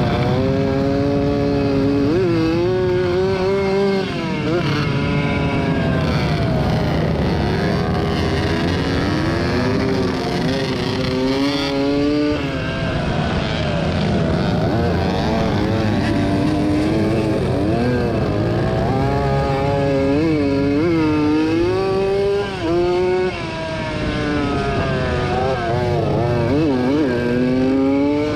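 Small two-stroke motocross bike engine of a 1987 Yamaha YZ80 being ridden hard, its pitch repeatedly climbing and then dropping sharply as it is shifted through the gears.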